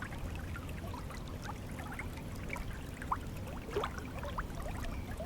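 Stream water flowing steadily, with small bubbling and trickling splashes over a low rush.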